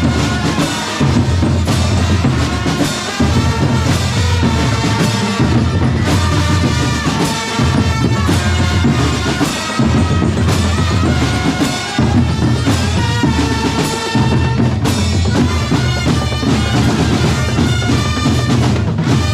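Drum corps music: a steady drum beat with a melody played over it on wind instruments.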